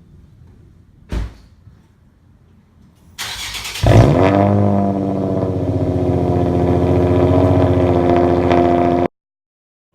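A thump about a second in. Then the starter cranks the 3.5-litre V6 of a 2007 Infiniti G35 sedan with its muffler and resonator deleted (straight-piped), and the engine catches with a loud flare about four seconds in before settling into a steady idle. The sound cuts off suddenly near the end.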